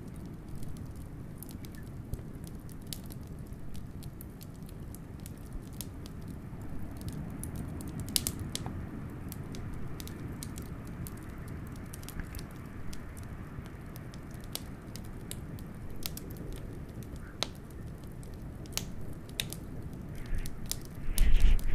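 Wood fire crackling, with sharp pops scattered throughout, over a steady low rumble of wind. Near the end a louder rushing surge comes in.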